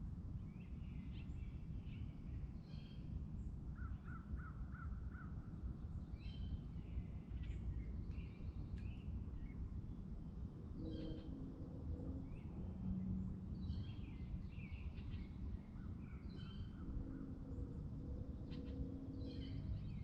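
Lakeside ambience: several birds calling with short repeated calls, including a quick trill about four seconds in and again near the end, over a steady low rumble.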